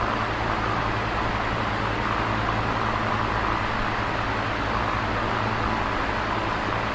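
Electric fan running steadily: an even whoosh of moving air with a low motor hum underneath.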